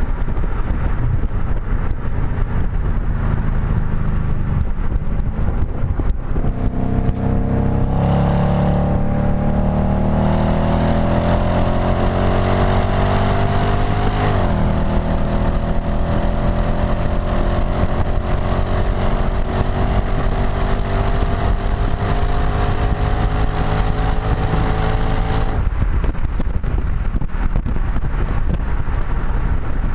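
Audi B7 S4's 4.2-litre V8 heard through a STaSIS aftermarket exhaust, pulling hard with the pitch climbing steadily, dropping sharply on an upshift about fourteen seconds in, climbing again, then lifting off about twenty-five seconds in. Wind rush over the microphone runs underneath.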